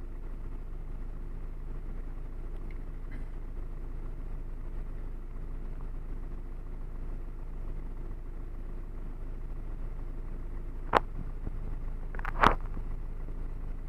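Car engine idling steadily, heard from inside the cabin. Two sharp clicks come near the end, about a second and a half apart.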